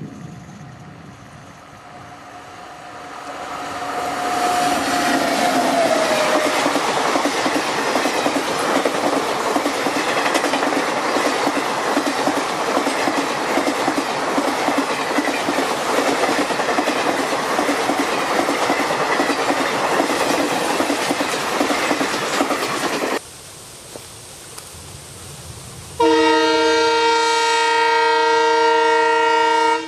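An electric locomotive's horn sounds, dropping in pitch as it passes. Then the train's coaches rush by at speed, wheels clattering over the rail joints. After a cut, a diesel locomotive sounds a long, steady multi-tone horn.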